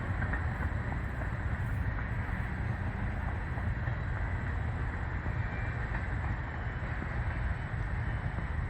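Steady low rumble of wind buffeting the microphone, fluttering without a break.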